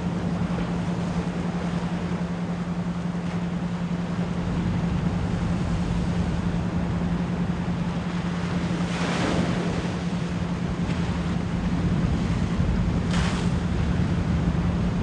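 Ocean surf hissing steadily under a constant 174 Hz pure tone. Waves break and wash in more loudly about two-thirds of the way through and again near the end.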